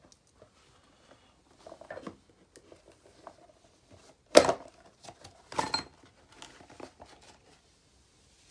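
Handling noises: scattered rustling and light clicks, with two louder clattering knocks about four and a half and five and a half seconds in.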